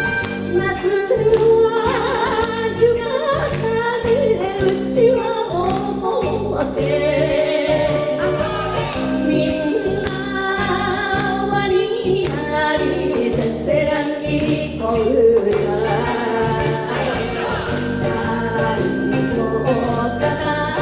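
Women singing an enka-style ondo song over a punchy band backing with a horn section and Japanese taiko drums.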